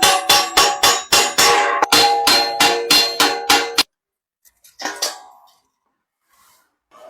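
Rapid hammer blows on sheet iron, about five a second for nearly four seconds, each ringing with a bright metallic tone. One more blow rings out about a second after the run stops.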